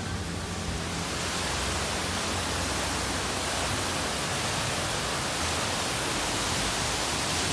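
Steady rush of water falling from a decorative waterfall or fountain, a continuous even noise that grows a little louder about a second in.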